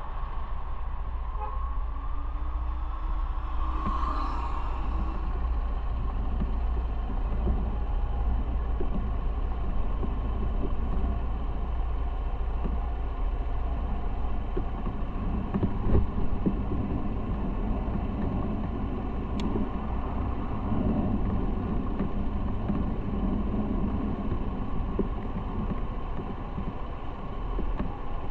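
Motorcycle running while riding on the road, the engine's rumble steady under road and wind noise, with a short sharp bump about sixteen seconds in.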